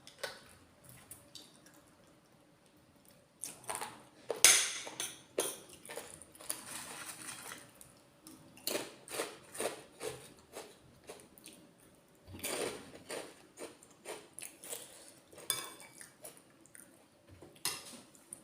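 Cutlery clinking and scraping against a dish while eating: quiet for the first three seconds, then a run of short clinks and scrapes, the loudest about four and a half seconds in.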